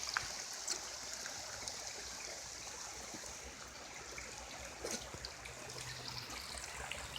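Steady rush of a flowing creek, with a faint click or two about five seconds in.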